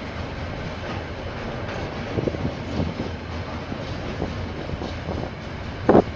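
KiwiRail train rolling past with a steady rumble, its wheels knocking over the rail joints every so often, and one louder clunk near the end.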